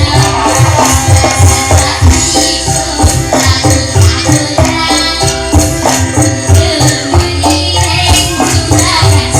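Dangdut band music with no vocals: a steady drum beat under melodic instrument lines, with jingling tambourine-like percussion.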